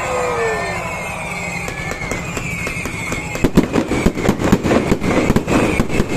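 Fireworks going off: a rapid run of sharp cracks and bangs, several a second, starting about halfway through over steady background noise.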